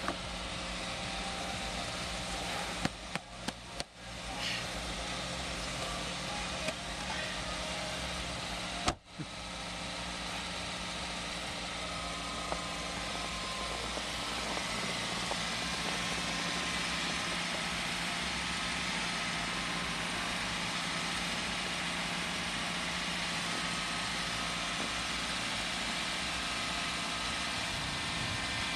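Car engine idling steadily. A few sharp clicks and knocks come about three to four seconds in.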